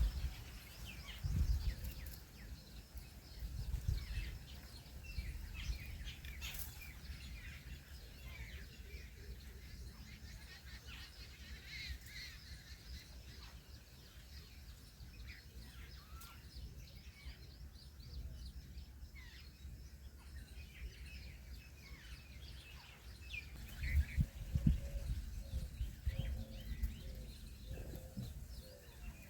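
Birds chirping with many short scattered calls, against low rumbling bursts about a second in, at about four seconds and again near the end.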